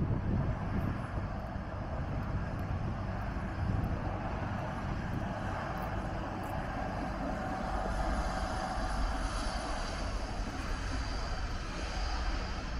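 A train running through the station: a steady rumble and rolling noise, with a faint whine coming in about halfway through.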